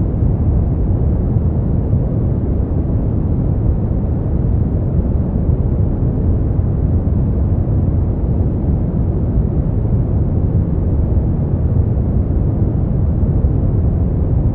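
Steady generated sleep-aid noise, sold as white noise: an unbroken, even rush that is deep and dull, heavy in the bass with no hiss in the highs.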